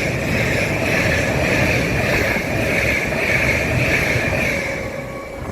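An LNER InterCity 225 train, led by driving van trailer 82225, running along the platform. It makes a loud, steady rushing rumble with a high wavering ring from the wheels and rails, and it fades near the end.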